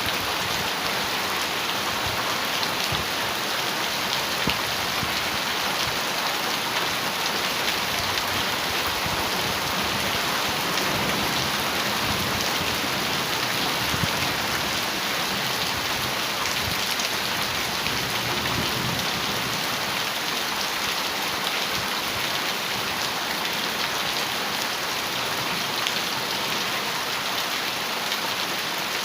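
Heavy rain drumming steadily on a metal roof, a dense, even patter of countless drops with no let-up.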